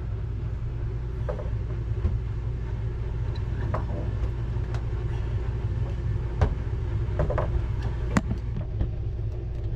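Steady low hum, with scattered light knocks and clicks as a refrigerator door is handled and worked onto its hinge peg; the sharpest clicks come about six and a half and eight seconds in.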